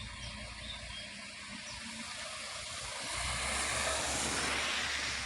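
Steady outdoor noise, an even hiss that swells louder about three seconds in.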